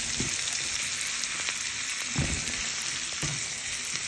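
Smoked rib tips, onions and spinach sizzling in a nonstick frying pan, a steady hiss, with a few soft knocks of a spatula stirring them.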